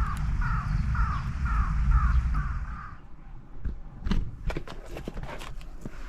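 A crow cawing in a steady run, about two calls a second, each call dropping slightly in pitch, stopping about halfway through, over a low rumble. Scattered sharp clicks and knocks follow.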